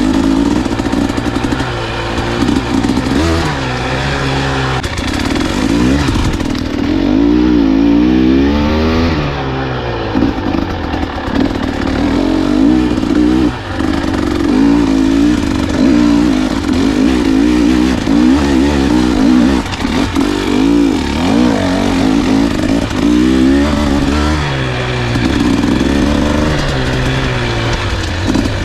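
Husqvarna enduro dirt bike engine revving up and down over and over under riding load, the engine pitch rising and falling every second or two.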